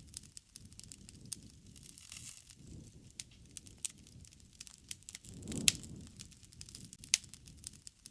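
Wood fire burning: irregular sharp crackles and pops over a soft low rumble of flames that swells twice. The loudest pop comes about two-thirds of the way in.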